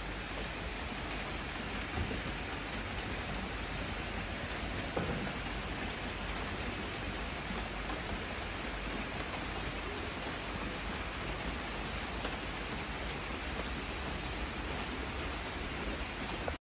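A steady, even hiss of noise with a few faint scattered ticks, cutting off suddenly at the end.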